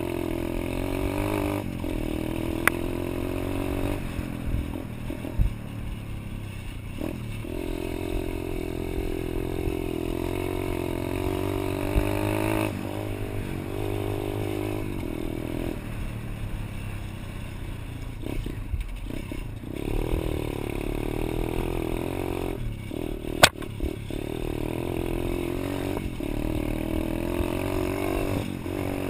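Pit bike engine running under a rider, its note rising and falling in repeated surges as the throttle opens and closes. There is a single sharp clack about three-quarters of the way through.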